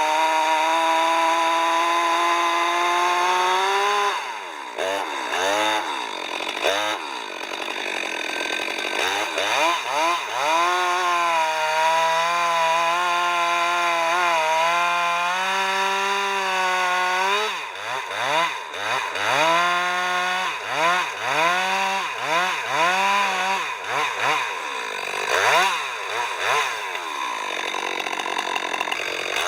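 Chainsaw engine running hard while cutting wood, its speed repeatedly dropping under load and picking up again.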